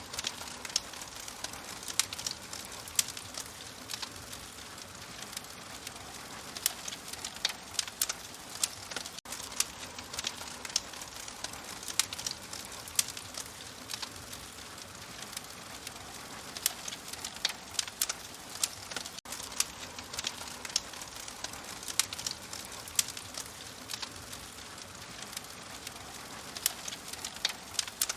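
Fireplace wood fire crackling, with sharp irregular pops several times a second over a soft steady hiss.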